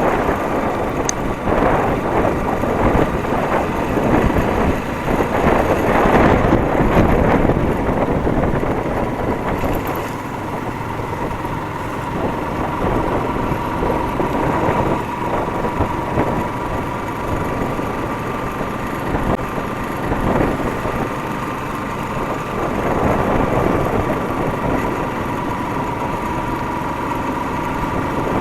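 Motorcycle engine running steadily with road noise, at a constant level throughout.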